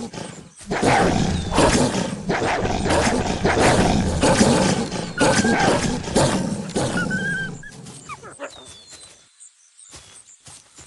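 Wolves growling and snarling harshly, a dense and loud animal sound that fades out about eight seconds in; thin chirps follow near the end.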